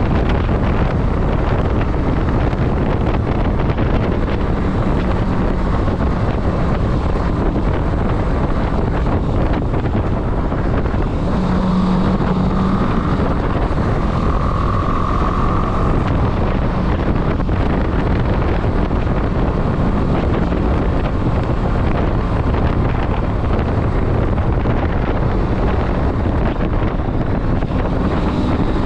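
Motorcycle on the move: the engine runs steadily under heavy wind noise on the microphone.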